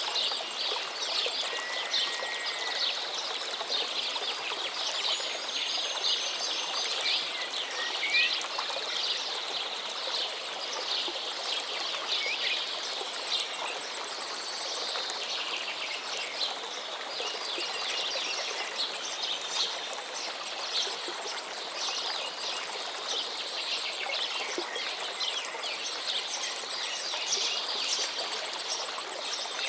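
A dense chorus of small birds chirping and trilling without pause, over a steady even hiss of outdoor background noise.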